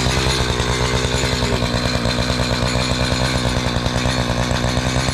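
Chainsaw running at steady high revs while cutting into a large log round, its freshly hand-filed chain throwing out chips.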